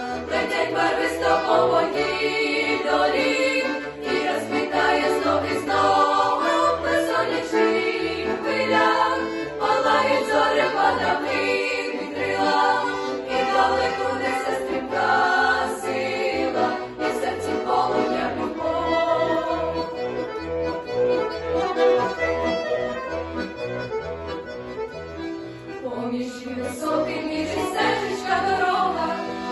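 A youth vocal ensemble singing together over an instrumental accompaniment, with a brief lull near the end before the voices come back in strongly.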